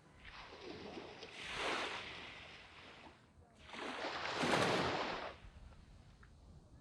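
Waves breaking and washing up a sandy beach: two surges of surf about three seconds apart, each swelling and then draining away.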